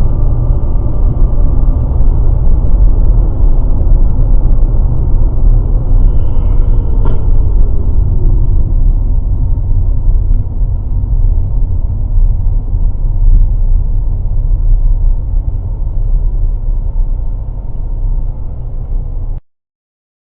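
A car on the move: loud, low rumbling road and engine noise with a few faint steady tones above it, cutting off abruptly near the end.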